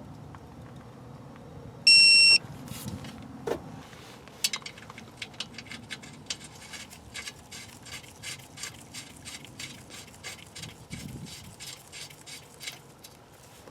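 A short, loud electronic beep, then a long run of quick, even clicks, about three to four a second.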